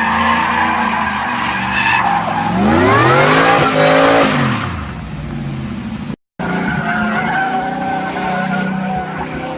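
Motor vehicle engines running, with one engine note rising sharply and then falling back around the middle as a vehicle revs past. The sound cuts out briefly a little after six seconds, and a steady engine hum follows.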